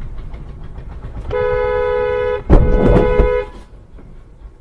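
A car horn blares steadily for about two seconds, and about a second into it comes a loud crash of impact while the horn is still sounding. Low road and engine rumble runs underneath.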